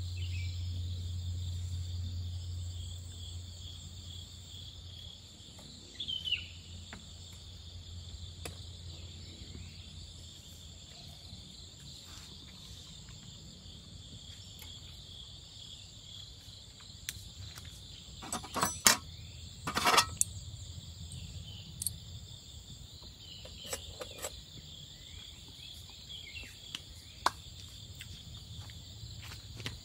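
Steady chorus of insects in the forest, a constant high buzzing, with a low hum fading out in the first few seconds. Occasional short knocks and clatters of handled gear come through, the loudest a cluster about two-thirds of the way through.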